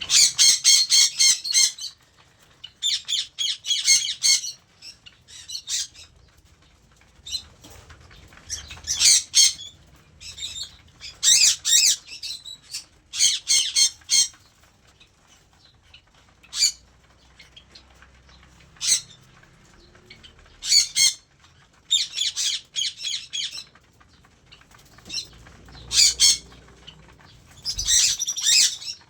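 Cockatiels giving repeated harsh, screechy calls in bursts of up to about two seconds, with short pauses between them.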